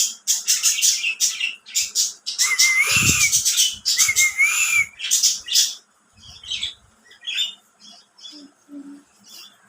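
Pet parrots squawking and screeching in a quick run of harsh calls, with two short arched whistles in the middle, then trailing off into softer, scattered chirps about six seconds in.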